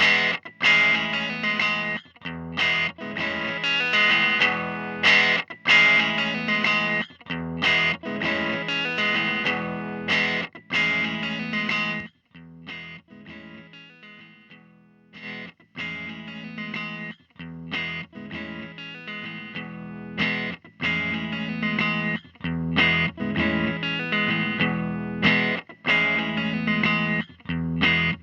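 Electric guitar played through a Dr. Z Maz 18 NR 2x10 tube combo amp: strummed chords with short stops, in a lightly broken-up, edge-of-breakup tone. About twelve seconds in, one chord is left to ring and fade out before the strumming starts again.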